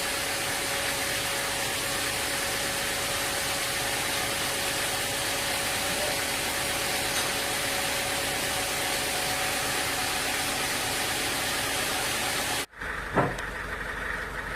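Sawmill machinery running with a steady, loud hiss and a faint steady whine. Near the end it cuts off abruptly and gives way to a lower engine hum with a single knock.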